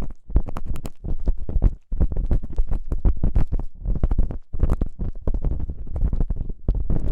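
Ear-cleaning tool scraping and rubbing inside the ear of a binaural dummy-head microphone, close up: quick strokes several times a second with a heavy low rumble, pausing briefly twice.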